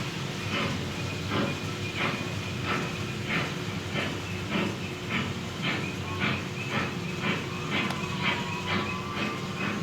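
Model train running on the layout: a regular chuff-like beat a little under twice a second, quickening slightly, over a steady hiss, with faint thin high tones.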